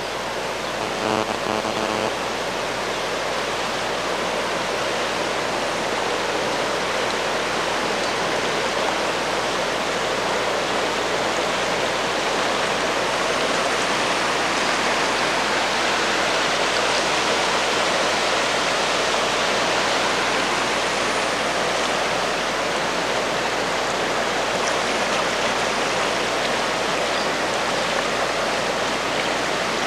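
Flash-flood water rushing steadily down a wadi channel, a strong, continuous flow.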